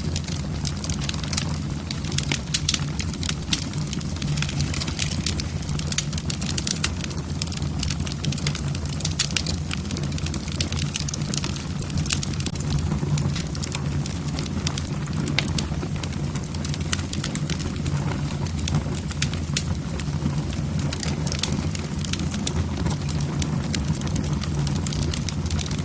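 Wood logs burning in a fireplace, crackling with many irregular sharp pops over a steady low sound of the flames.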